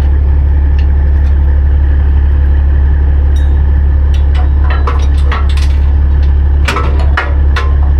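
Truck diesel engine running steadily with a deep, loud drone, with a series of sharp metallic clicks and clanks in the second half.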